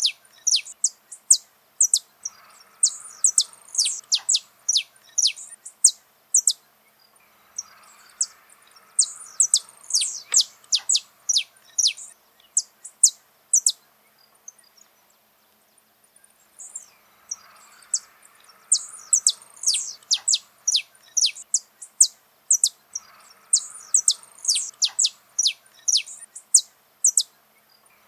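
Saffron finch singing: long phrases of rapid, sharp, high notes, broken by a pause of a couple of seconds about halfway through.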